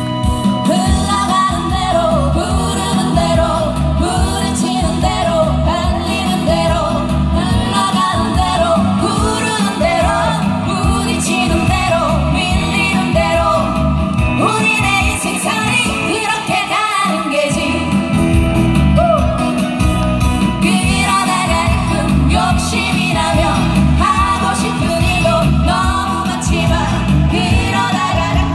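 Live pop song: singers' voices over loud amplified backing music with a steady beat.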